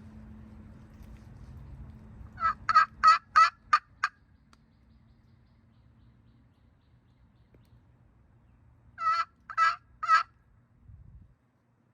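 Hen-turkey yelping played on a hand-held friction turkey call: a run of about six yelps, then a pause, then three more yelps. Near the end there is a soft low thump.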